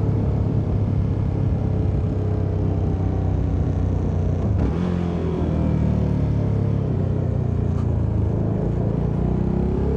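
CFMoto 300NK's single-cylinder engine running as the motorcycle is ridden. The engine note drops and changes pitch about halfway through, then runs steadily again.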